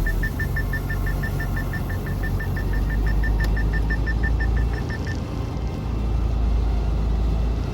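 Semi-truck engine running with a steady low rumble. A rapid electronic beep sounds over it, about six short high beeps a second, and cuts off about five seconds in.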